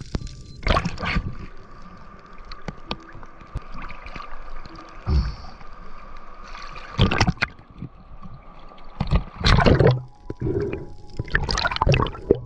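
Water gurgling and sloshing in irregular bursts, with several louder rushes.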